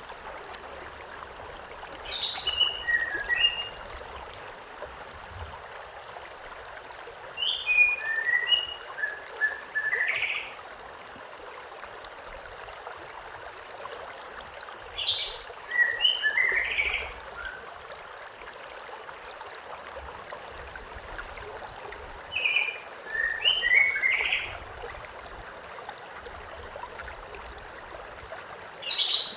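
Steady rush of a river or stream, with a songbird singing a short phrase of several quick falling chirps over it, repeated about every seven seconds.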